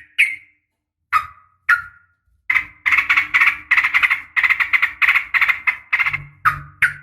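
Sooty-headed bulbul (trucukan) calling: a few sharp single notes, then a fast run of about six notes a second lasting about three seconds, then two more single notes. This is the bird's rapid 'ropel' fighting call.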